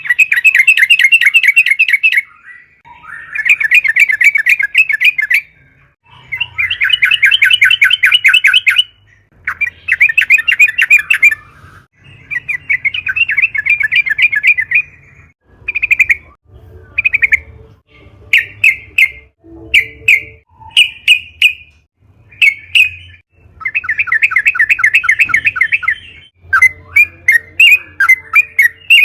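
Yellow-vented bulbul (trucukan) singing: loud, rapid, bubbling trilled phrases of two to three seconds each, with short pauses between them. About halfway through, the song breaks into a run of short separate notes. Near the end there is one more long phrase, then quick notes again.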